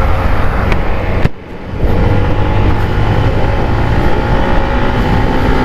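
Wind buffeting a helmet-mounted mic on a moving motorcycle, with the engine's steady drone underneath; the visor is open. The sound cuts out briefly a little over a second in, then resumes.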